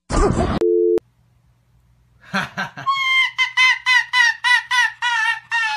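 A short censor bleep cuts off a spoken word, then a small white furry animal gives a rapid run of short, high yelping calls, about three a second, that sound almost like giggling.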